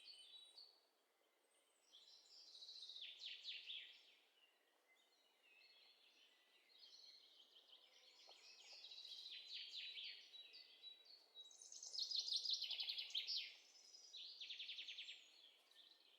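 Faint birdsong: a few short, fast chirping trills, each lasting a second or two, separated by pauses of a few seconds.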